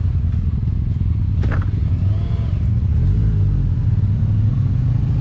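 Motorcycle engine running steadily while riding, a low, even engine note, with a single sharp click about one and a half seconds in.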